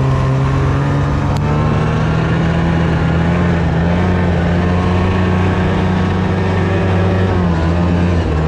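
Pull-start snowmobile engine running steadily, its pitch holding nearly level, while not yet fully warmed up. A faint click about a second and a half in.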